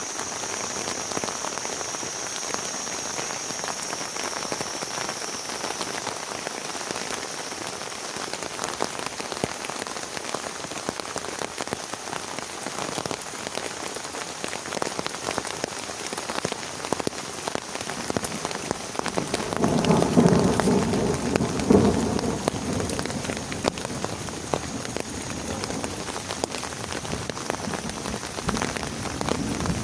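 Heavy rain falling steadily, dense drops striking a surface. About two-thirds of the way through, a louder low rumble swells for a few seconds and peaks twice.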